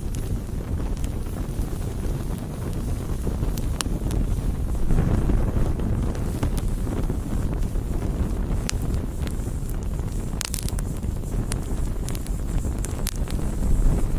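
Wood campfire burning: a steady low rush of flames, swelling a little about five seconds in, with scattered sharp crackles and pops of burning wood.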